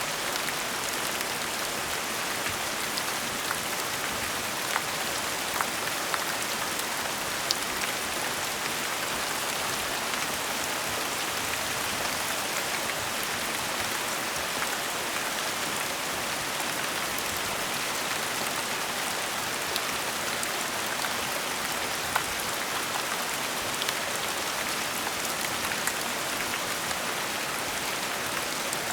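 Steady gentle rain falling, an even hiss with scattered individual drops ticking now and then.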